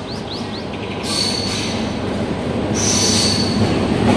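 Passenger train pulling into the station, its rumble growing louder as it comes alongside, with a high metal-on-metal squeal from the wheels and brakes from about a second in.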